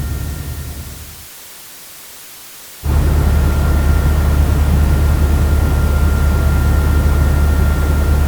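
Helicopter running with a steady low rumble and a thin high whine. The sound fades out, and after a short gap a second helicopter recording starts abruptly about three seconds in.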